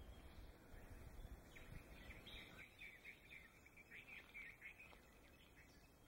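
Faint bird calls: a quick run of short chirps lasting about three seconds, starting a second and a half in, over a low background rumble.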